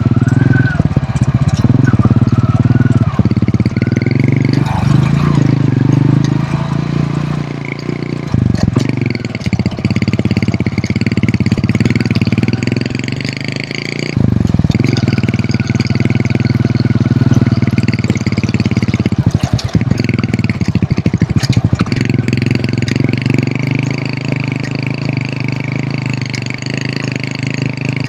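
Hero Honda CD100's small single-cylinder four-stroke engine running steadily while the motorcycle is ridden, its note dipping briefly about eight and fourteen seconds in.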